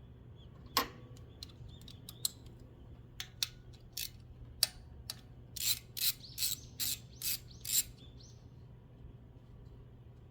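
Ratchet wrench being worked, as on a spark plug socket: scattered clicks, then six short ratcheting strokes in quick succession about two-thirds of the way in.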